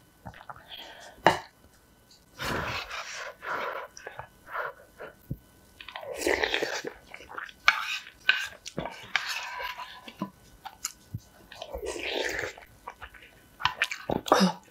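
Close-miked chewing of spoonfuls of rice soaked in spicy noodle broth, coming in several bursts, with sharp light clicks of spoons against the bowl in between.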